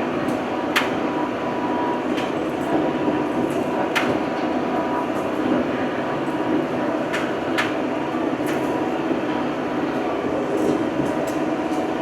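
Old farm tractor's engine running steadily under way, with a few sharp rattles or knocks from the machine scattered through.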